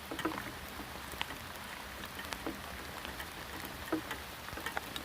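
Steady rain falling, with scattered drops ticking sharply on nearby surfaces.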